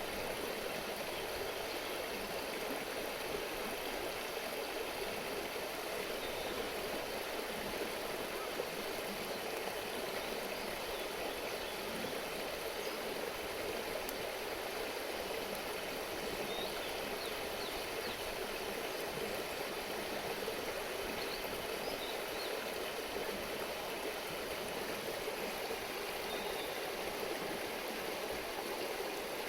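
A river babbling steadily over stones, an even, unbroken rush of running water.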